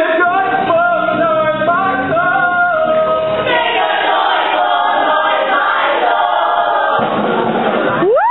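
A stage musical's cast chorus singing a gospel-style number: short stepped phrases, then a long held chord, then a wide vocal swoop rising and falling near the end.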